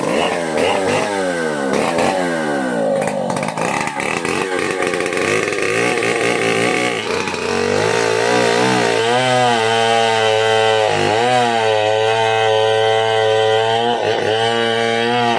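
Stihl 070 two-stroke chainsaw revving up and down repeatedly for several seconds as it is used to cut a waru tree. It then runs at a steady high pitch that sags briefly three times, as if under load in the cut.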